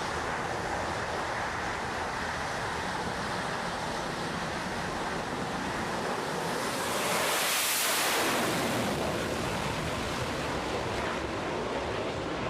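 Steady rushing noise that swells louder and brighter for about two seconds a little past the middle.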